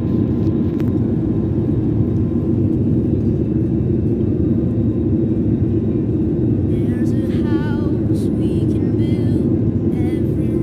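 Steady low noise inside an airliner's cabin, the constant hum of the aircraft and its ventilation. Faint wavering voice-like sounds surface briefly about two-thirds of the way through.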